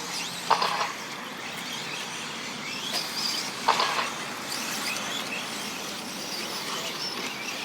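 Electric 1/10-scale 4WD short course RC trucks racing, their motors whining up and down in pitch over the tyre noise. Two short, loud clattering hits stand out, about half a second in and near four seconds in.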